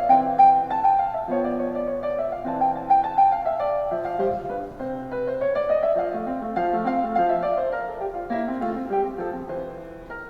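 Background piano music: a gentle, slow melody over sustained chords, fading out near the end.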